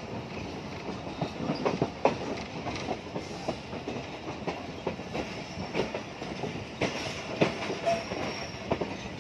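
Passenger train coaches rolling along the track, heard from an open coach doorway: a steady rumble with the wheels clicking and knocking irregularly over the rail joints.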